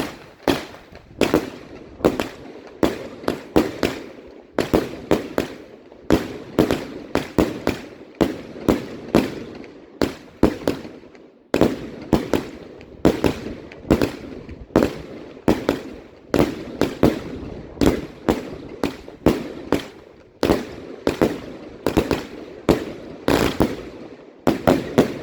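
Firework barrage firing shot after shot: a fast run of sharp bangs, two or three a second and often in quick clusters, that stops shortly before the end.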